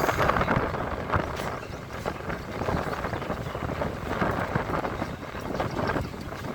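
EMU local train running along the track, heard from on board: a steady rumble with wheels knocking irregularly over the rails and wind noise on the microphone.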